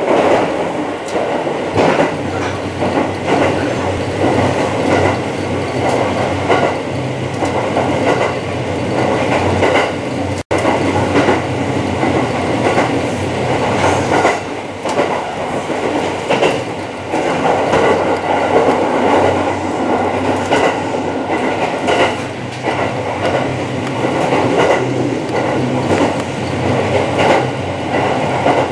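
Running noise inside a 285 series Sunrise Izumo sleeper train on the move, with wheels clicking over rail joints. There is a split-second break in the sound about ten seconds in.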